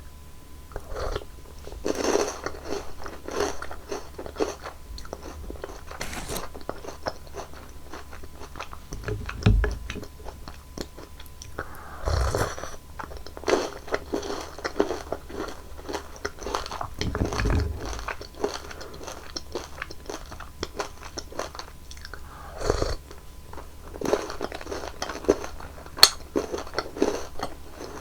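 Close-miked eating of crunchy chocolate sweets: repeated bites and crisp, crackling chewing, with a louder crunch every few seconds.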